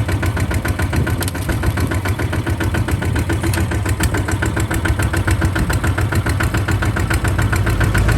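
Kubota RT140 DI single-cylinder diesel engine running steadily with a rapid, even firing beat.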